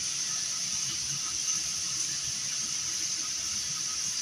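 Steady high-pitched hiss with a faint low rumble beneath it, unchanging throughout.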